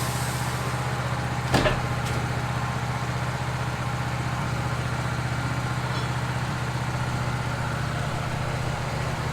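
Wood-Mizer LT15 portable band sawmill's engine running steadily. A high hiss dies away right at the start, and a single sharp knock comes about one and a half seconds in.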